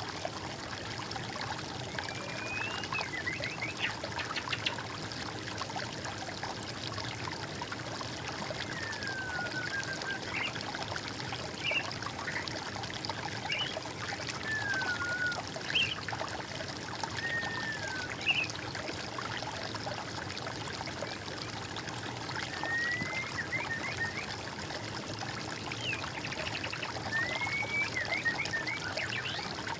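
Water trickling and flowing steadily, with birdsong over it: short whistled notes and phrases coming every few seconds, some rising and some falling in pitch.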